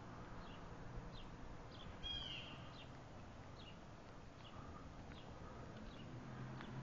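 Birds calling: short, high chirps about once or twice a second, with one louder, longer call about two seconds in.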